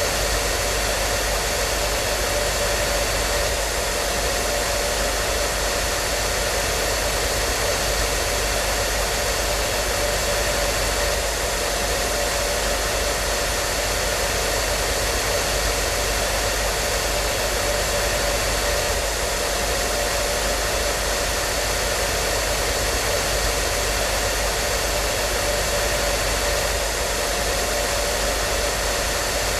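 Hair dryer running continuously at a steady speed: an even rushing hiss of blown air with a faint steady motor whine and low hum.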